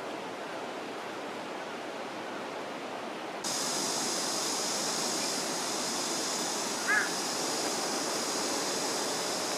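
Mountain stream water rushing steadily. A third of the way in, the sound steps up as a steady high hiss joins it, and a single short high chirp sounds about two-thirds of the way through.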